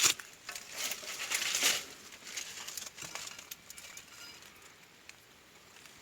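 Rustling and crackling of dry leaves and brush being disturbed, loudest in the first two seconds, then dying away to faint scattered clicks.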